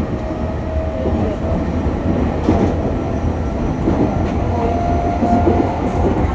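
JR East E501 series electric train running, heard from inside its motor car: a steady rumble of wheels on rail with occasional knocks and a faint motor whine that comes and goes.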